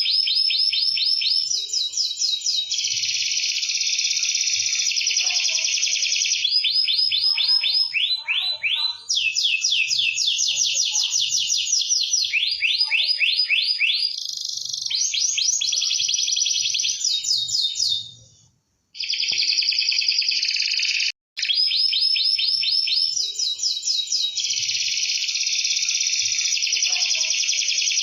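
Domestic canary singing continuously in fast rolling trills: each phrase is a rapid run of identical high notes, switching to a new note type every second or two. The song breaks off for about half a second around two-thirds of the way through, and again very briefly soon after.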